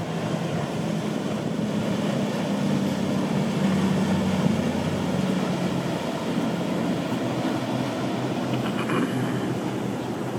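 Low engine drone of a boat passing through the inlet. It builds to its loudest about four seconds in, then eases off.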